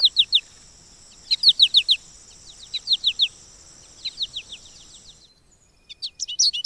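Small birds chirping in groups of two to four short, quick, falling chirps over a steady high-pitched hum. About five seconds in, the hum and chirps stop and a faster, more varied twittering starts.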